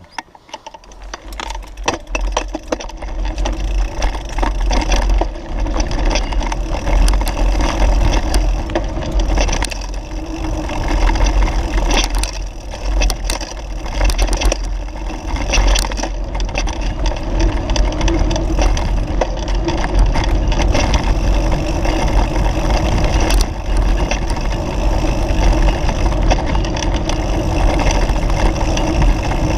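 A vehicle driving over a rough dirt road, with a steady deep rumble and frequent knocks and rattles from the bumps.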